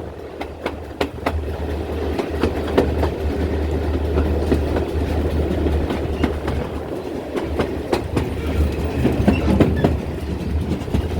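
GWR 4200 class 2-8-0 tank engine No. 4247 running past with its passenger train: a steady low rumble with many sharp clicks of wheels over the rail joints. It grows louder over the first couple of seconds and then holds.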